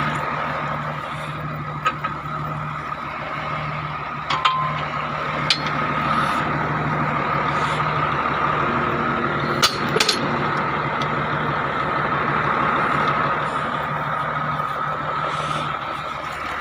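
MTZ-1221 tractor's diesel engine running steadily, with a few sharp clicks or knocks scattered through.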